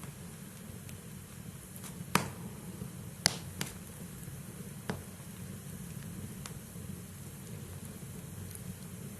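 Burning logs in a fireplace: a steady low rumble of the fire with sharp crackling pops from the firewood, four clear pops between about two and five seconds in, the first two loudest, and a few fainter ticks.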